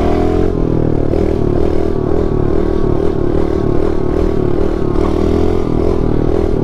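Pit bike engine running steadily at moderate revs, its pitch wavering slightly with small throttle changes.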